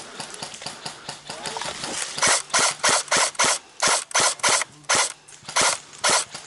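Electric airsoft rifle, a cheap AK-style gun, firing about a dozen quick semi-automatic shots, roughly three a second, starting about two seconds in, with faint clicking before them.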